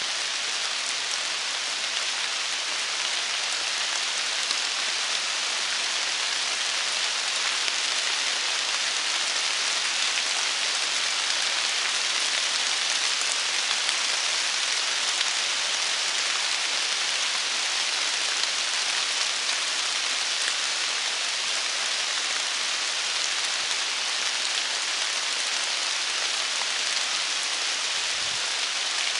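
Steady rain falling on autumn foliage and a trail carpeted with fallen leaves: an even hiss of many fine drops.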